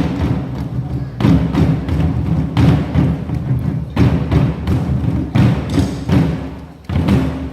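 Nanta drum ensemble beating drums with sticks in unison over recorded backing music, heavy accented strikes landing about every second and a third.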